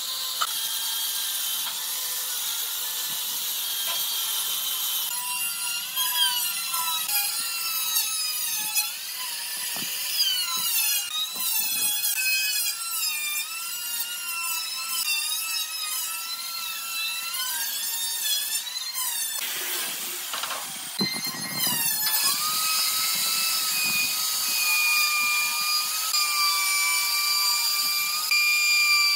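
Electric power tool working wood, its motor whine wavering up and down in pitch as the load changes, settling into a steadier whine near the end.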